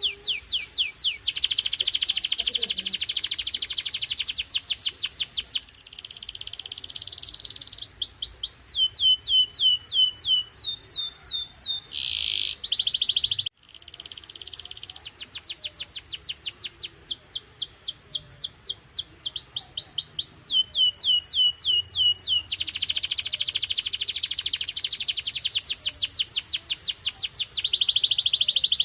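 Domestic canary singing: long runs of fast, repeated falling notes and rolling trills, one phrase after another. The song cuts off sharply for an instant about halfway through, then resumes.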